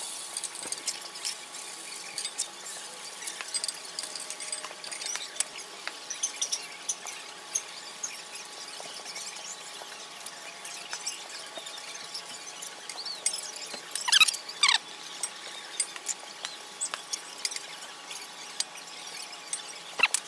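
Latke batter frying in hot oil in a cast-iron skillet: a steady sizzle with spattering pops and the clink of a spoon on the skillet and bowl. About fourteen seconds in, a couple of short high squeaks that fall in pitch.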